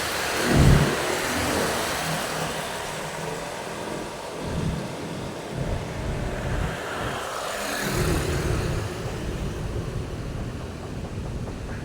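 Road traffic on a main road: vehicles passing with engine rumble and tyre noise. A loud low rumble comes just under a second in, and another vehicle passes close about eight seconds in.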